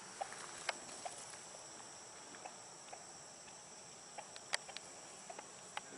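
Turkeys giving faint, scattered short clucks and clicks, a few a second at most, over a steady high chorus of crickets.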